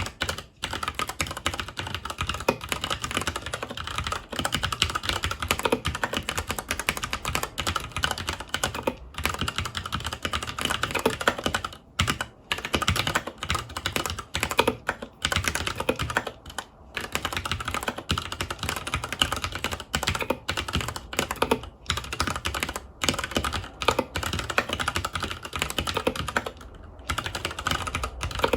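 Continuous fast typing on a FILCO Majestouch 2 Hakua tenkeyless mechanical keyboard with Cherry MX Brown tactile switches: a dense run of key clacks with a few brief pauses.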